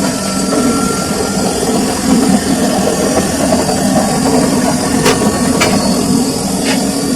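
Samsung washing machine running a full load: a loud, steady mechanical hum from the drum and motor, with a few sharp clicks in the second half.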